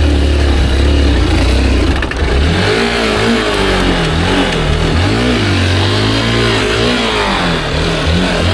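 Small motorcycle engine running under load, steady at first and then, from about two and a half seconds in, revving up and down repeatedly as it labours to climb a sand dune.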